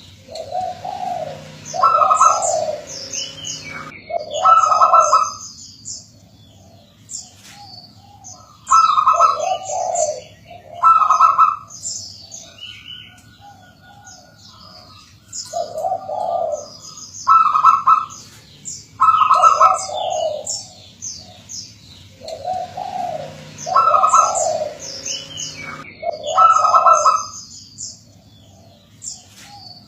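Zebra dove (perkutut) cooing: repeated phrases of short, rhythmic low coo notes, the phrases often in pairs a couple of seconds apart. Higher, fainter twittering of small birds runs alongside.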